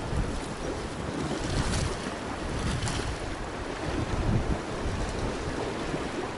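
Sea waves washing with wind buffeting the microphone, two louder washes about two and three seconds in.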